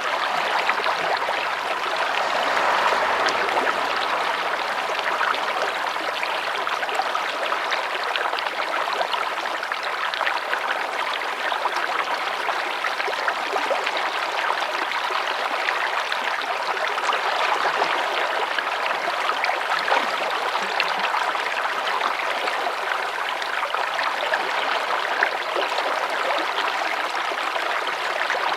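Running water flowing steadily, the even splashing rush of a small stream.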